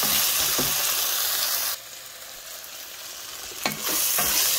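Onion, tomato and cashew pieces sizzling as they fry in a pot, stirred with a wooden spoon. The sizzle drops much quieter for about two seconds in the middle, then comes back with a few knocks of the spoon against the pot.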